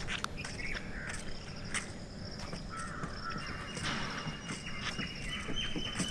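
Birds calling: short high-pitched calls repeating throughout, with a few lower calls in between.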